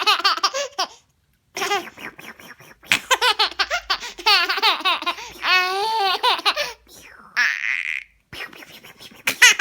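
Baby laughing in repeated high-pitched bursts. A short hissing noise comes about seven and a half seconds in.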